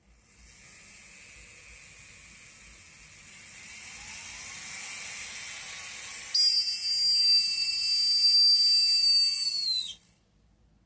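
Handpiece of an electric nail drill (nail sander) running with a high-pitched whine. It gets suddenly louder and shriller about six seconds in, then drops in pitch as it winds down and stops near the end. This is the squeal the handpiece makes while a dislodged white part scrapes on its housing.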